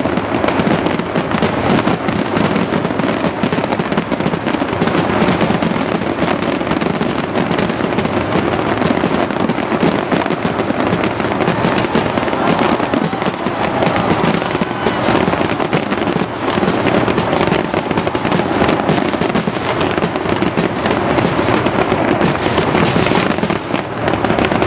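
Fireworks display in a dense, unbroken barrage: many rapid bangs and crackles overlapping one another.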